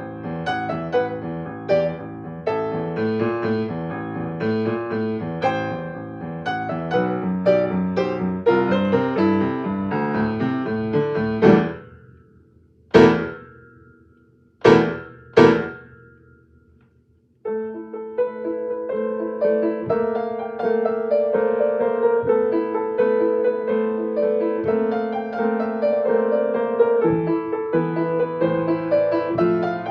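Solo piano playing a dramatic piece: busy passages, then four loud, sharp chords in the middle, each left to ring away into near silence. After that the playing resumes with steadier held notes.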